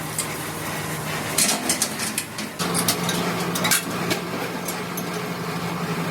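Metal parts clinking and clanking in a series of sharp knocks, over the steady hum of a running machine.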